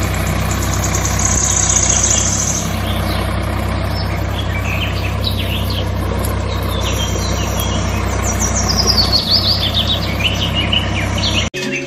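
Tractor engine idling steadily, with birds chirping over it; the chirping grows busier about two-thirds of the way through. Both cut off suddenly just before the end.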